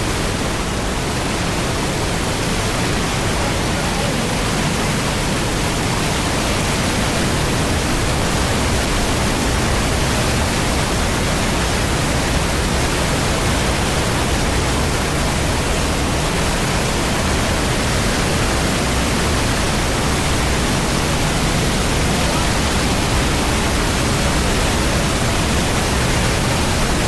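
Steady, loud rush of flowing water in a canyon streambed, an even hiss with no breaks.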